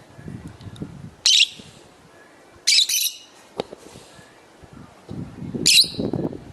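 Lovebirds giving short, shrill squawking calls, three times, with softer low rustling sounds in between.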